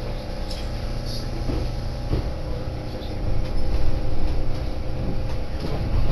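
Electric commuter train pulling away from a station, heard from inside the car: steady motor hum and wheel rumble with scattered clicks, getting louder about three seconds in as it picks up speed.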